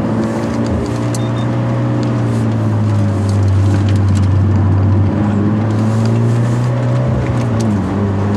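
Genesis Coupe 2.0's turbocharged four-cylinder engine pulling at fairly steady revs. Its pitch dips briefly about five seconds in, falls near the end, then picks back up.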